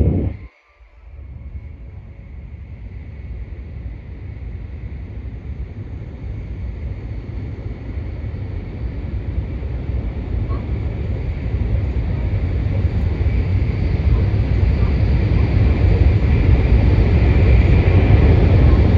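Cabin noise of a Shinkansen train running: a low rumble that almost vanishes for a moment right at the start, then grows steadily louder.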